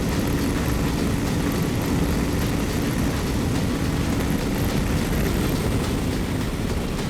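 KTM 390 Adventure's single-cylinder engine running at steady high revs near top speed, with heavy wind rush on the microphone.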